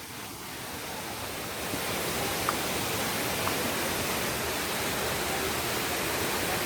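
Waterfall rushing over rocks: a steady, even rushing noise that grows louder about a second or two in and then holds.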